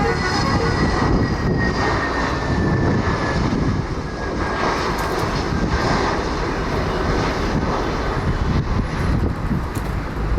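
Airliner engines running loud at the airport, a broad, steady roar with a faint high whine that slowly falls in pitch over the first few seconds.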